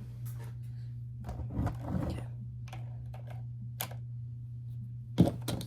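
Scattered light clicks and taps of small plastic toy pieces being handled, with a sharper click near the end, over a steady low hum.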